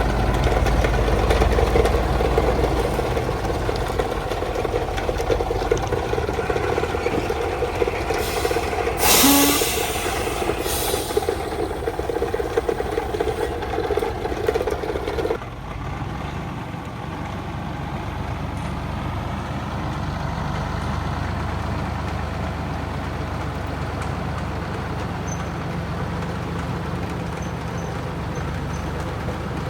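A 1975 truck's engine running, with two short air-brake hisses about nine and eleven seconds in. About halfway through, the engine note drops suddenly to a lower, steadier run.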